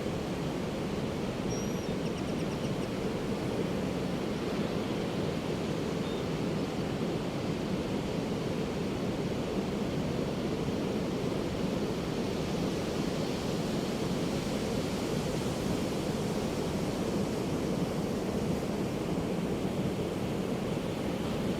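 Pacific surf washing on an open beach: a continuous, even rush of breaking waves with no distinct individual breakers.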